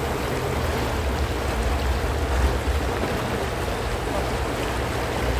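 Tour boat's motor running steadily, a low hum under an even wash of water and wind noise.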